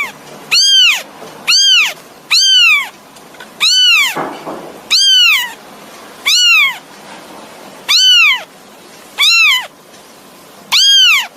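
Kitten meowing over and over, calling for its mother: about nine short, high-pitched meows, each rising then falling in pitch, about one a second.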